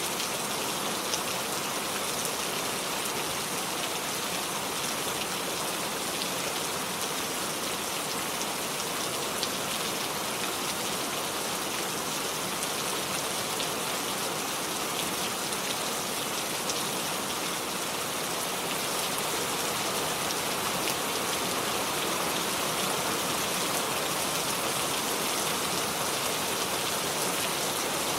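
Steady rainfall, drops pattering on surfaces with no let-up.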